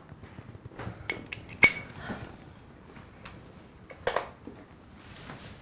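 Clinks of teacups and cutlery, a spoon against china: a few light knocks, then one sharp ringing clink about a second and a half in, and another small clatter near the end.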